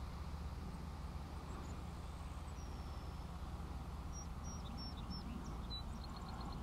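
Outdoor ambience: a steady low rumble with small birds calling over it, a few short high whistled chirps about four seconds in, then a quick run of five even chirps near the end.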